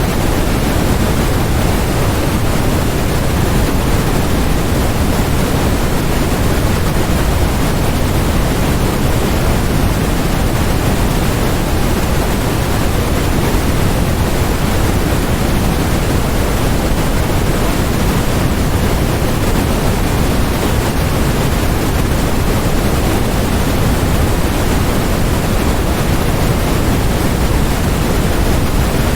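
Steady electronically generated noise, a constant even hiss that never changes. It is fuller in the low end than in the highs, so it is closer to pink noise than to pure white noise.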